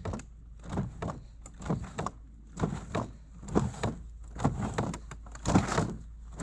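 Footsteps crunching through deep snow, a regular crunch a little under once a second.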